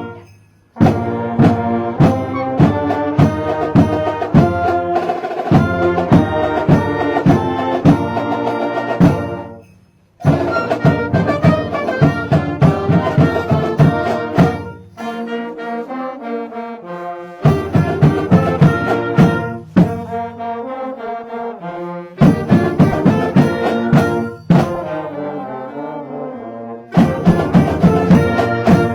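High school marching band playing a Christmas carol: brass carrying the melody over steady drum strokes. There are short breaks between phrases near the start and about nine seconds in, and softer passages later on.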